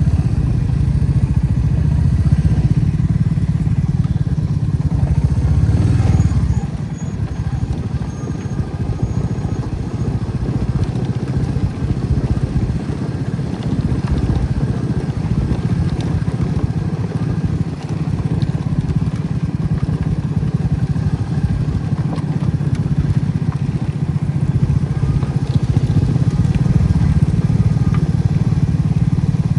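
Motorcycle engine running steadily while riding, with wind and road noise; the level drops a little about six and a half seconds in and stays lower for a while.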